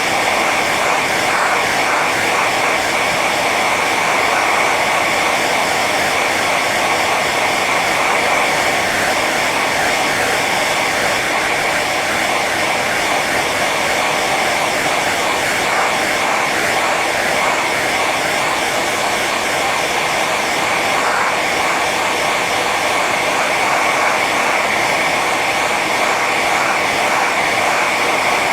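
Hair dryer running steadily on its high setting: a constant rush of blown air with a steady whine from the fan motor.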